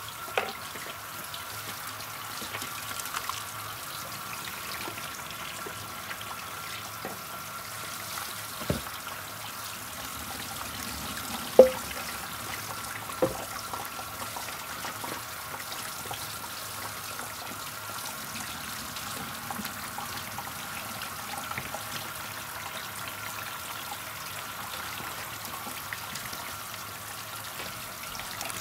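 Liquid trickling and pouring steadily, with a few light knocks, one louder near the middle.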